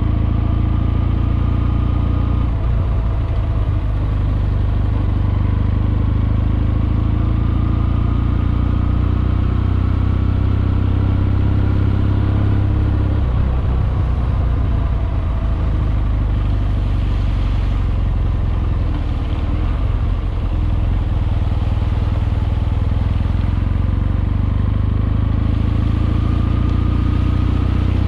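Kawasaki W650 air-cooled parallel-twin engine running while riding, its pitch climbing slowly and then dropping back a few times as the rider changes gear or eases the throttle.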